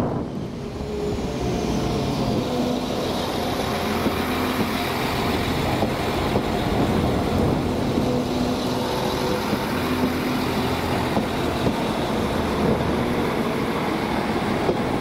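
A train running at the station, a steady mechanical hum with several held tones that stays even throughout.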